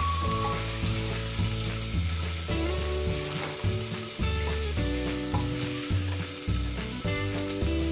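Sliced onions sizzling in hot oil in a pressure cooker as they are stirred with a spatula, being lightly browned. Background music with held notes plays over the frying.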